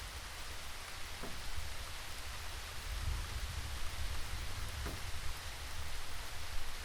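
Steady rainfall hissing evenly, with a low, uneven rumble underneath and a couple of slightly louder individual drops.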